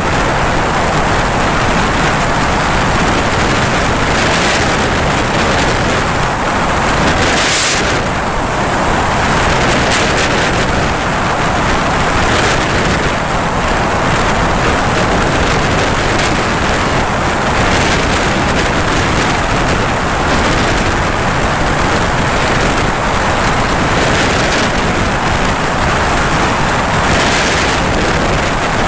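Light aircraft in flight: its engine and the rushing air make a loud, steady noise, with a brief brighter hiss about seven seconds in.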